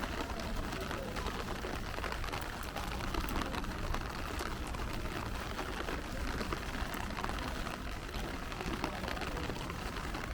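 Rain on a city street: a steady hiss of falling rain with scattered drip ticks, over a low rumble of urban traffic.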